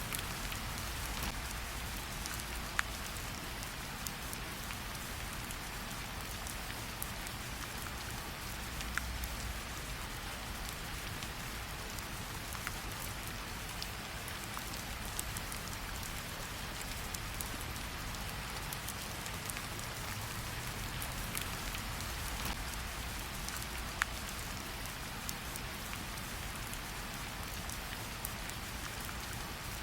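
Steady rain hiss mixed with a fireplace ambience, a low rumble swelling and easing slowly underneath, and a few louder sharp crackles standing out from fainter ticks.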